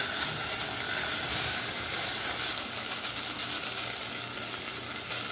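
Food frying in a pot: a steady sizzling hiss.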